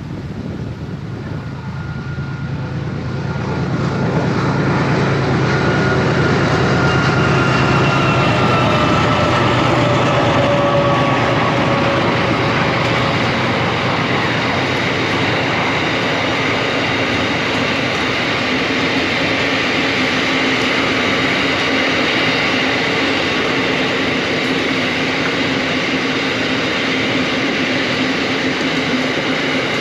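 Narrow-gauge diesel freight train passing. The locomotives' engine drone builds over the first few seconds, with tones that slowly fall in pitch as they go by. Then comes the steady rolling noise of the wagons on the rails.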